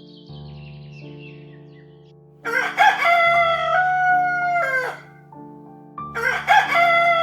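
Rooster crowing twice, each cock-a-doodle-doo about two and a half seconds long and dropping in pitch at the end, over soft background music with held notes.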